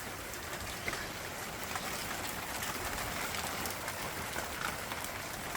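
Steady rain falling from a storm, an even hiss with many small drops ticking.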